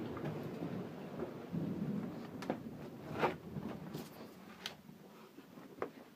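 Thunder rumbling low and dying away, with rain and a few scattered sharp taps of drops.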